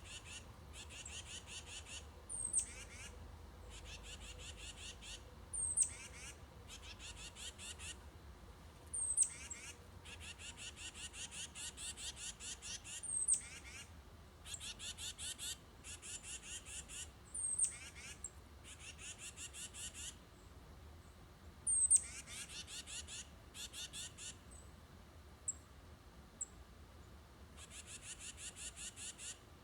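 Wild songbirds singing: a fast, even trill about a second long repeated over and over, with a sharp, high, down-slurred note every few seconds.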